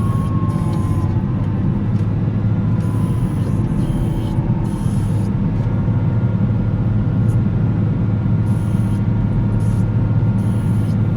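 Volvo L70C wheel loader's diesel engine running steadily under load while plowing snow, with a faint whine gliding down in pitch during the first second.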